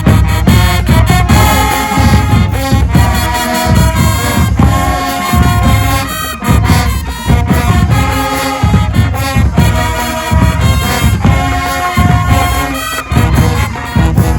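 High school marching band playing in HBCU show style: brass horns sounding held notes over heavy, regular bass drum hits.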